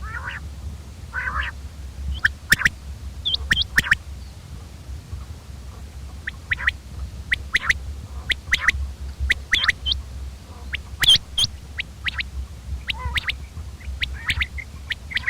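Common quail calling: short, sharp notes repeated in quick groups of two or three, with a couple of raspier calls near the start. A steady low hum runs underneath.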